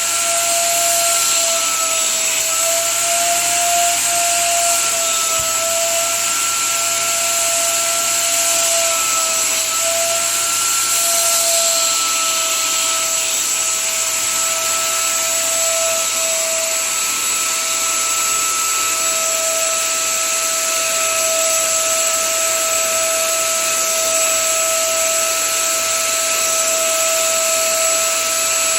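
20-litre shampoo vacuum cleaner running steadily: a high motor whine over a rushing hiss of air, its pitch wavering slightly at first and then holding steady.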